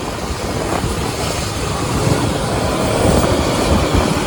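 Motorcycle engine and exhaust running loud while the bike is ridden, its level slowly climbing.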